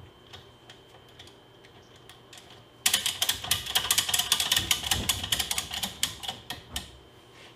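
Ratchet tie-down strap being cranked tight: about three seconds in, a fast run of loud ratchet clicks starts, then thins out and stops near the end as the strap draws tight on the load.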